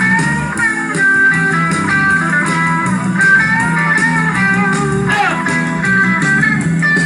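Guitar music: a plucked guitar melody moving over a steady low accompaniment, with a sliding bend in pitch about five seconds in.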